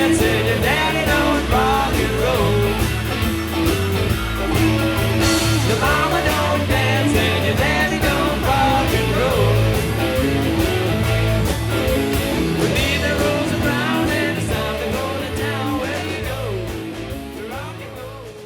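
Live rock band playing an instrumental passage, fading out over the last few seconds.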